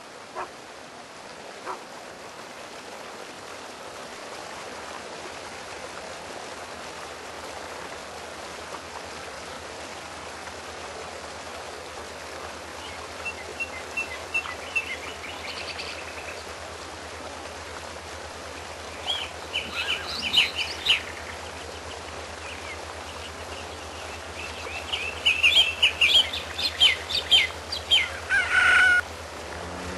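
Birds chirping over a steady hiss, with short calls scattered from about the middle and growing busier toward the end, where fowl-like calls join in.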